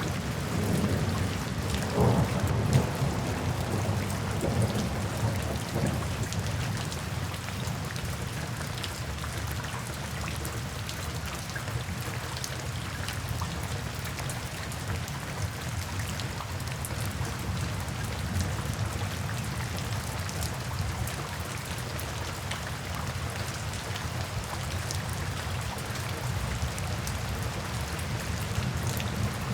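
Steady rain falling into puddles, pattering with many small drops. A low roll of thunder swells about two seconds in and dies away by about six seconds.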